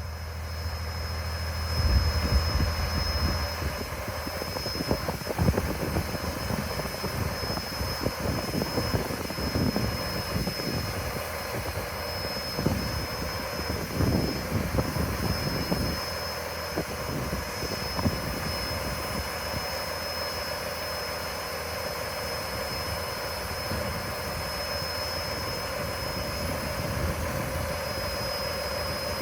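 Diesel engine of a Sterling LT8500 dump truck running while its dump bed lowers, with a steady high whine throughout. Heavier irregular rumbles and knocks come in the first half, and it settles into a steady run after about sixteen seconds.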